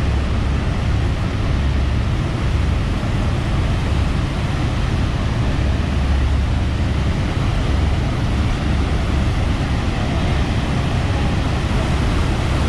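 Steady loud roar of rushing water and a tour boat's engine, heavy in the low rumble.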